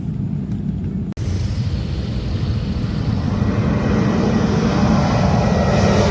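Jet airliner engines running, a rushing roar that grows louder and brighter over several seconds as the aircraft powers up or passes close.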